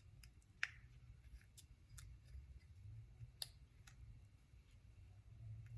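Faint, sparse clicks and ticks of small Andis Master clipper parts being handled and clipped together during reassembly, a few sharp ticks spaced a second or more apart over a low room hum.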